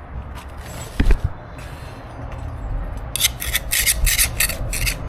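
A hand scraper scraping carpet underlayment off a concrete subfloor where it is glued down, in a quick run of short strokes from about three seconds in. A single thump comes about a second in.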